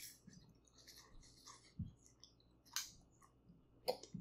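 Close-miked chewing of hot pot food: soft, wet mouth smacks and clicks, with a few sharper clicks spread through.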